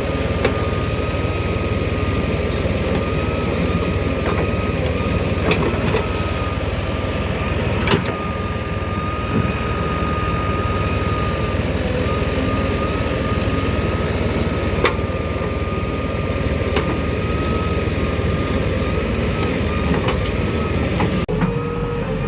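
The diesel engine of a JCB 3DX backhoe loader running steadily, with a thin high whine over the rumble and a few sharp knocks now and then.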